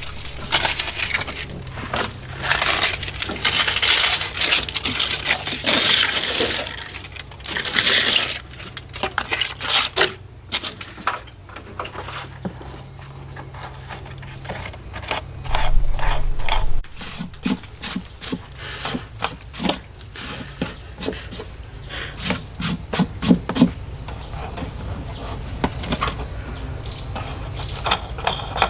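Dry leaves rustling and crackling as they are scooped out of an old car, with scattered knocks and scrapes. The rustling is dense at first, then thins to sparser clicks and taps, with one short dull thud about halfway through.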